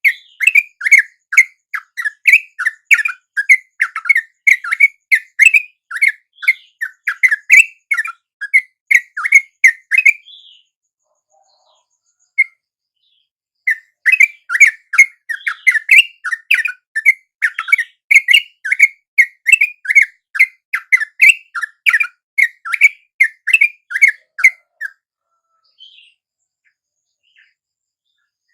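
Yellow-vented bulbul (trucuk) calls: a fast run of sharp, repeated chattering notes, about three a second. The notes break off about ten seconds in, start again about three seconds later, and stop a few seconds before the end.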